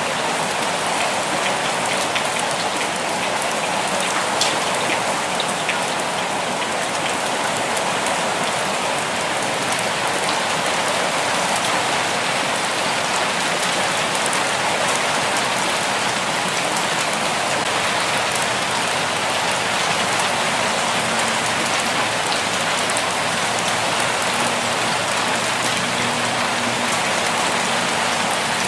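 Steady, even rainfall: drops pattering on surfaces in a continuous hiss.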